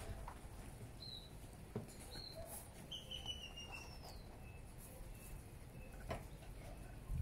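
Faint high bird chirps, then a thin whistle that falls slowly over about two seconds, over a low background rumble. A couple of soft clicks or rustles come about two seconds in and again near the end.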